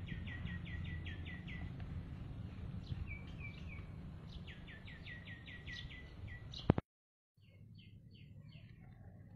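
A bird calling outdoors in two quick runs of short, descending notes, each run lasting about two seconds, over a steady low background rumble. A sharp click comes about two-thirds of the way in, the sound cuts out for a moment, and fainter bird notes follow.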